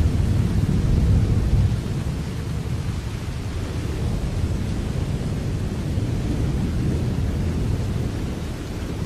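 Steady rain with a deep low rumble underneath, louder at first and easing off about two seconds in.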